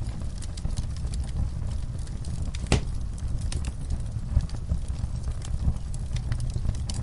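Fireplace fire crackling: a steady low rumble of burning with scattered sharp crackles and one louder pop a little under three seconds in.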